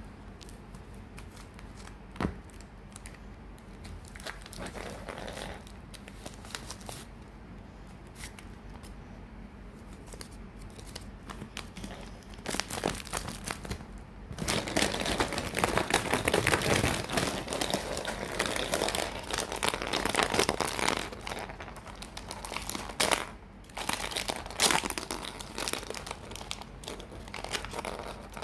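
Blind-bag packaging being handled and torn open, crinkling. Light handling with a few clicks at first, then loud, dense crinkling from about halfway through.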